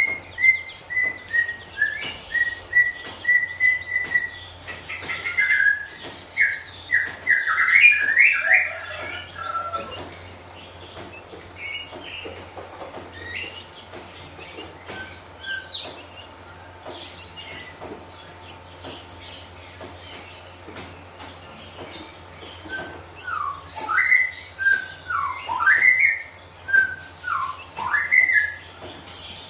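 Oriental magpie-robin singing. It opens with an even run of short, clear whistled notes, then quick rising and falling whistled phrases, a quieter stretch with scattered notes and clicks, and a fresh burst of varied song near the end. A low steady hum runs underneath.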